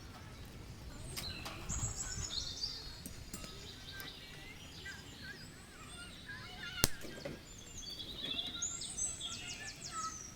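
Songbirds chirping and twittering in quick high notes, in two busier spells, with one sharp click about seven seconds in.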